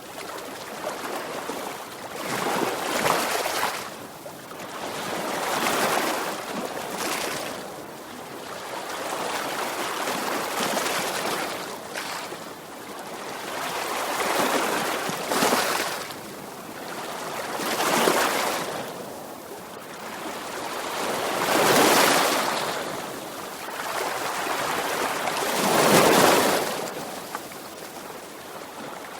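Sea waves breaking and washing on a shore, a surge of surf every three to four seconds, the loudest about three-quarters of the way through.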